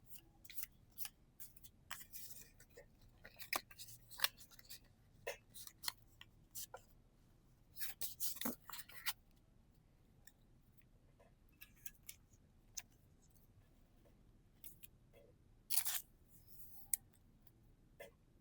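Pokémon trading cards being handled and flipped through, with short crisp slides and snaps of card against card. It comes thick for the first half, then sparser, with one louder rustle near the end.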